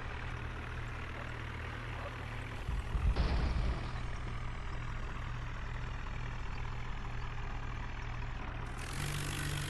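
Tractor diesel engine running steadily, with a brief louder rumble about three seconds in.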